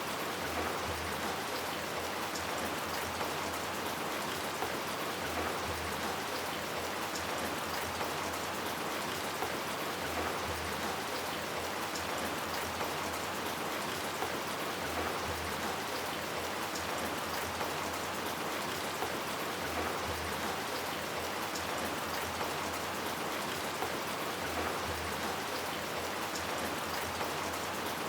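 Steady rain falling, an even hiss with scattered drop ticks on hard surfaces.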